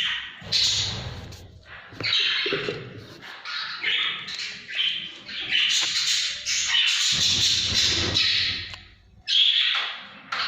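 Lovebird chicks about a month old calling almost without a break, in scratchy, hissing calls. The calls pause briefly about nine seconds in, then come in another burst.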